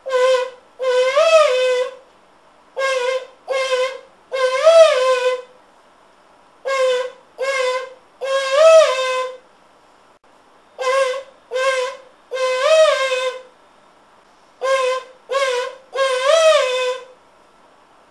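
A person imitating a bird call. A three-note phrase of two short notes and a longer note that rises and falls in pitch repeats about every four seconds, five times.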